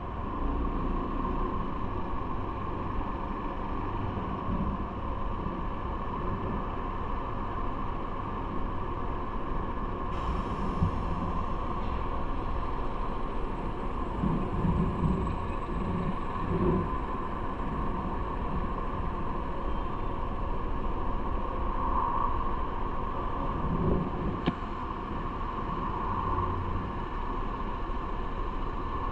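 Steady rumble of wind and road noise from riding a bike through the city, with a brief sharp click about twenty-four seconds in.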